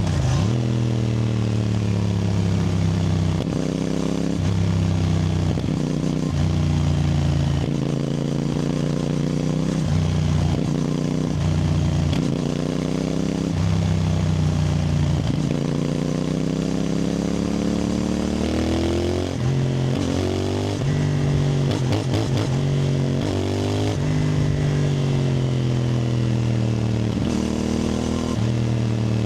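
CFMoto 450NK motorcycle's 449 cc parallel-twin engine under way, its revs climbing and dropping again and again as the rider accelerates and shifts through the gears. A brief run of sharp clicks or pops comes about two-thirds of the way through.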